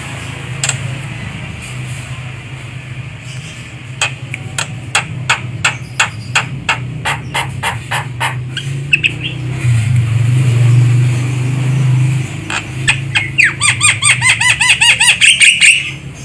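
Javan myna (jalak kebo) calling: a run of sharp clicks, about three a second, through the middle, then a fast series of loud, harsh chirps near the end. A steady low hum runs underneath.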